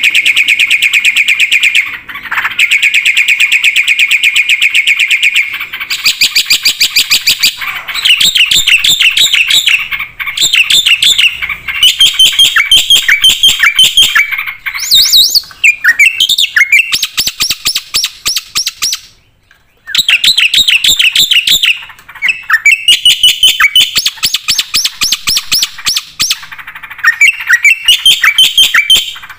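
Black-winged myna (jalak putih) singing without pause: long runs of fast, repeated chattering notes and whistled glides, broken by one short silence about two-thirds of the way through.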